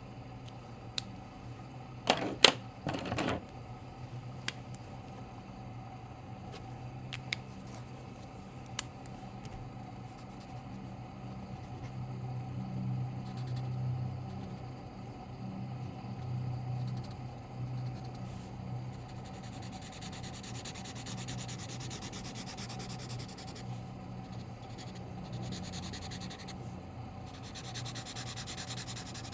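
Drawing or colouring on paper: a few sharp clicks early on, the loudest cluster about two to three seconds in, then a steady scratchy rubbing of a drawing tool on paper.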